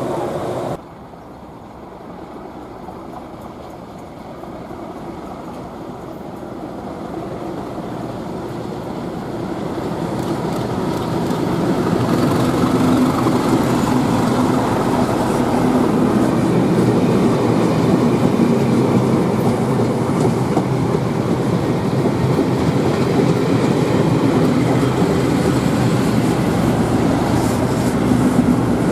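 A pair of Class 37 diesel locomotives approaching and passing, their English Electric V12 engines growing louder over about ten seconds, then running loud and steady as the train goes by.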